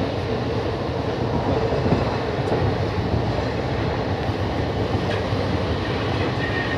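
Passenger train running, heard from inside the carriage: a steady rumble of the wheels and coach on the track.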